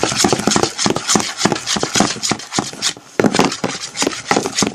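A spoon stirring sticky slime in a bowl: a quick run of wet squelching clicks that eases briefly about three seconds in.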